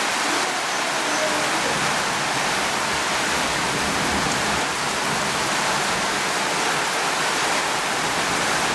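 Steady rain falling, a dense even hiss with no distinct drops or thunder.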